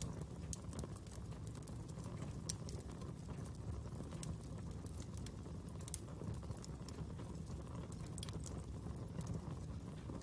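Wood fire burning, a steady low rumble of flames with irregular sharp crackles and pops.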